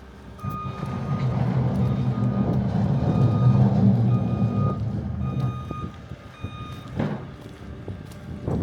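Truck's reverse alarm beeping at about one beep a second over the low engine rumble of the vehicle, which swells and then fades away. Two sharp knocks near the end.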